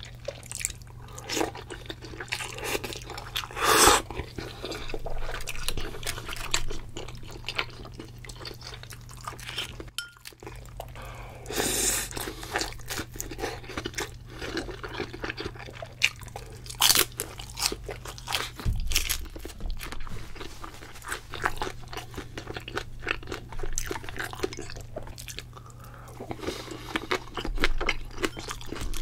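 Close-miked chewing and crunching of food, with dense wet mouth clicks and a few louder bursts about four, twelve and seventeen seconds in, over a steady low hum.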